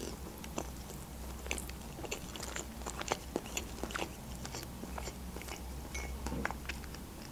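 A person chewing food close to the microphone, with soft, irregular wet mouth clicks.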